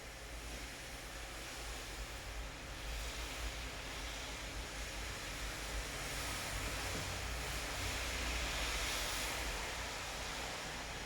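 Rain falling steadily, a hiss that swells through the middle and eases near the end, over a low rumble.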